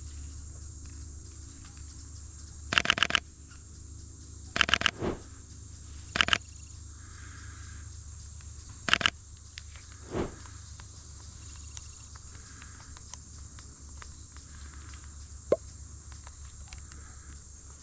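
Camera shutter firing in short bursts of several rapid clicks, four bursts a second or two apart. Underneath is a steady high insect hum.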